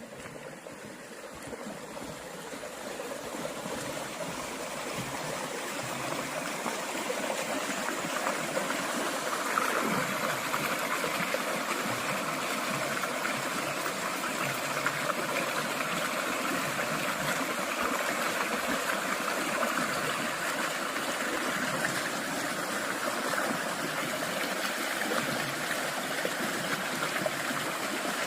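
Small stream of field overflow water running through a gap. It is a steady rush of water that grows louder over the first several seconds, then holds steady.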